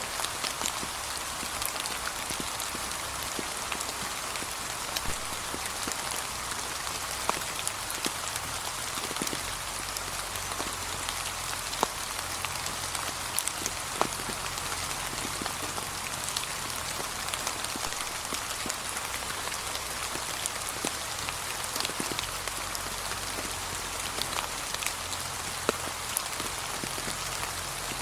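Gentle rain falling on fallen autumn leaves: a steady hiss with many scattered single drops ticking sharply over it.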